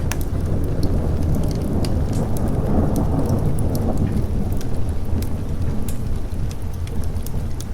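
A thunderstorm: a long roll of thunder swells from about a second in, peaks around three seconds and fades over the next few seconds, over steady rain. Sharp crackles from a wood fire are scattered throughout.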